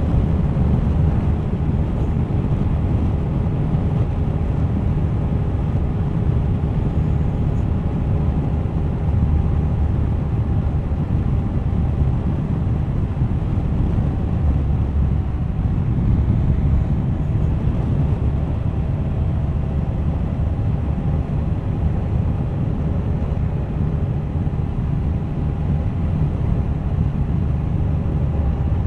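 Suzuki GSX1250FA motorcycle's inline-four engine running at a steady speed on the road, with wind rushing over the microphone.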